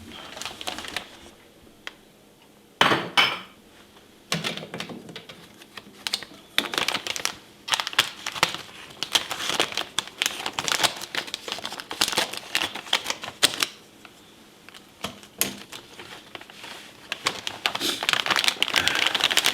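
Packaging around mixed seafood being worked open by hand: irregular crinkling, crackling and clicking, with a few louder crackles about three seconds in and again near the end.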